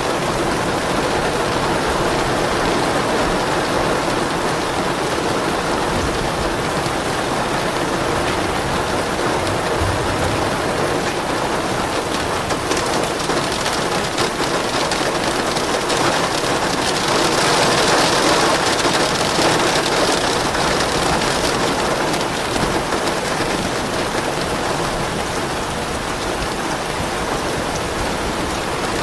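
Steady rain falling on a surface, with an even hiss and patter. It grows heavier and louder for a few seconds about two-thirds of the way through, then eases back.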